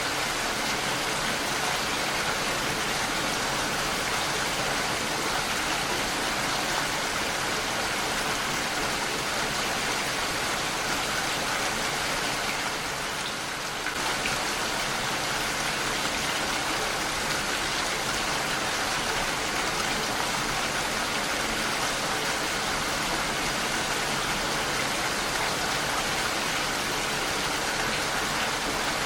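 Heavy rain falling steadily against a window, a dense even hiss with a brief lull about halfway through.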